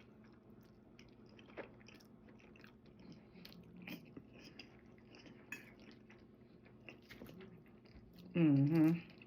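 A person chewing food close to the microphone, with soft, faint wet clicks and crunches. Near the end a brief hummed voice sound rises above the chewing.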